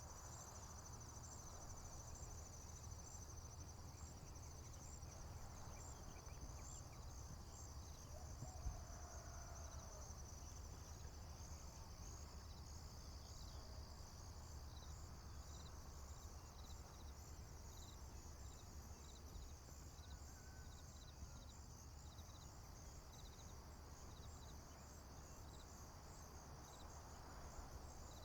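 Faint chorus of crickets and other insects chirping: high, rapidly pulsing trills that run steadily, with a steady low rumble beneath and a single soft thump a little under nine seconds in.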